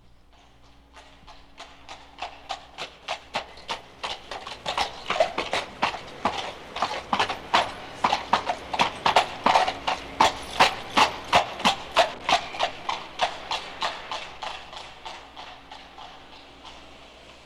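Horse's shod hooves clip-clopping on a hard street at an even trot, coming closer from silence, loudest midway, then fading away as it passes.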